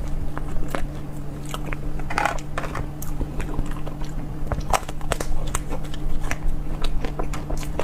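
Close-miked ASMR eating: biting and chewing with many crisp, crackling crunches throughout, over a faint steady low hum.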